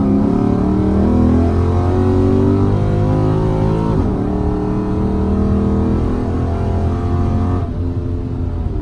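Dodge Challenger SRT8's Hemi V8 idling steadily while warming up from a cold start.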